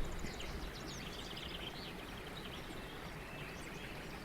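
Background birdsong: small birds twittering in quick, repeated high chirps and trills over a faint steady hiss. A brief low thump comes right at the start.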